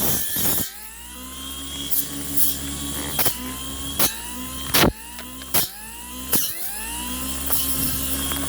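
Cordless brush cutter's brushless electric motor running, its pitch repeatedly dropping and rising back up as the dull blade bites into woody stems, with sharp cracks as the blade strikes branches.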